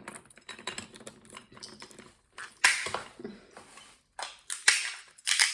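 Walnut shells clicking, cracking and rattling in irregular sharp taps and scrapes as walnuts are cracked and picked at, with louder cracks about two and a half seconds in and near the end.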